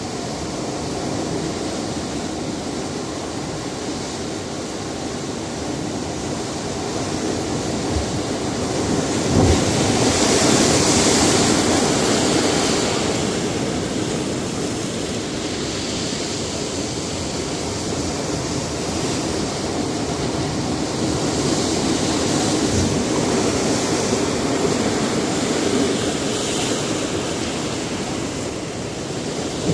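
Sea surf breaking on a rocky shore: a steady wash of water with a larger wave swelling up about a third of the way through and more surges later, with low thuds as waves hit the rocks.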